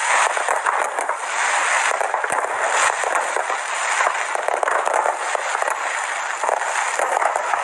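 Fireworks display: a dense, unbroken crackling of many small bursts with no deep booms.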